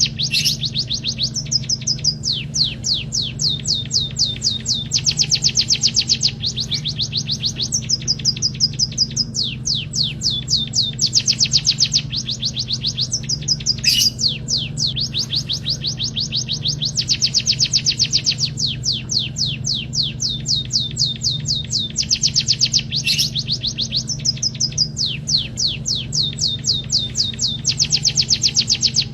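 White-headed munia (emprit kaji) singing: runs of fast, high, evenly spaced chirps in phrases a few seconds long with brief gaps between, over a steady low hum.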